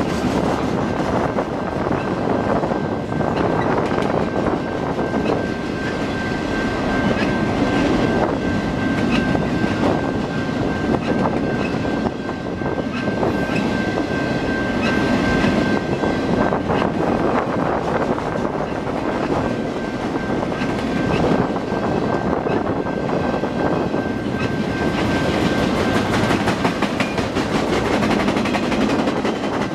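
Freight train flatcars loaded with wind turbine blades rolling past: a steady rumble of wheels on rail with clickety-clack over the rail joints. A thin, steady high tone runs through it and stops near the end.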